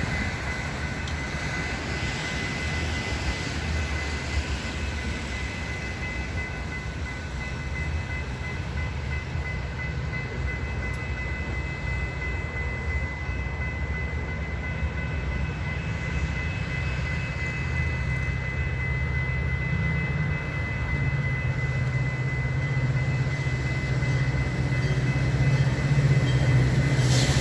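Metra outbound commuter train approaching, its F40PH diesel locomotive's low engine rumble growing steadily louder toward the end, over a steady high ringing tone.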